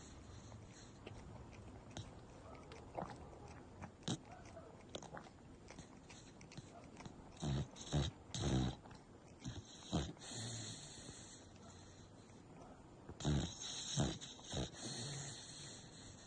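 American bully dog snoring loudly in its sleep, in uneven bursts of breaths and snores that are loudest a little past halfway and again a few seconds later, with a few faint clicks a few seconds in.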